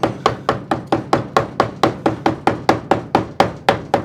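Mallet tapping a carving gouge through wood in a steady run of quick, even strikes, about four to five a second.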